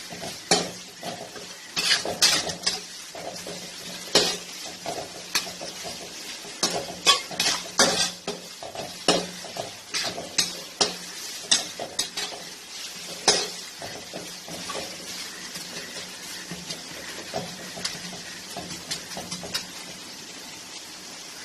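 Onions, curry leaves and green chillies frying in oil in a pan, stirred with a spoon that scrapes and clinks against the pan in quick, irregular strokes. The strokes thin out over the last several seconds, leaving mostly the sizzle.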